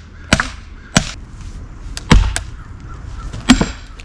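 Sledgehammer striking a steel splitting wedge driven into an oak round: a series of sharp knocks, the loudest, with a heavy thud, about two seconds in.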